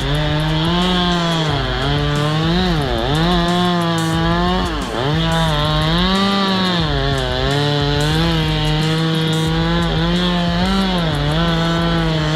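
Chainsaw running at high revs while cutting wood. Its engine note sags and recovers again and again, with the deepest dips about three and five seconds in, as the chain bogs down in the cut.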